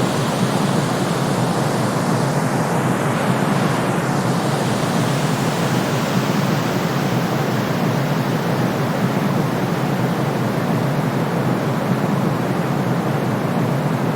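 Steady white noise for soothing a baby: an even, deep rushing hiss with no rhythm, tones or breaks, its top end a little duller from about six seconds in.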